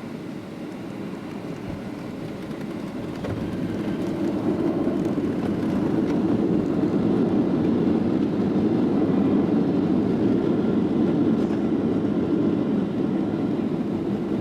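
Cabin noise inside a Boeing 737-700 on its landing roll: a steady low roar that builds about three to four seconds in and stays loud, typical of reverse thrust and the wheels running on the runway just after touchdown.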